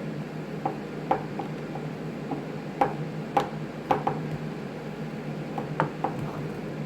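Hard plastic parts of a string trimmer's head housing clicking and knocking as they are handled and fitted back together, about a dozen short sharp clicks scattered, loudest in the middle.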